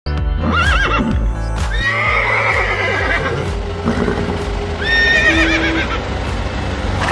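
Horse whinnying three times, each call quavering up and down in pitch, over background music.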